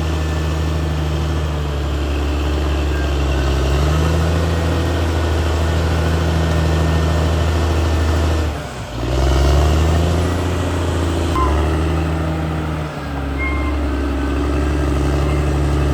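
Caterpillar D6R XL bulldozer's diesel engine running under load, its note rising about four seconds in and dropping away briefly twice in the second half as the load changes. A couple of short high squeaks come through near the end.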